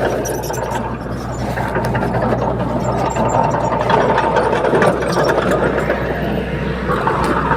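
Heavy diesel earthmoving machinery running steadily, with a constant low engine drone and scattered metallic clicks and clanks over it.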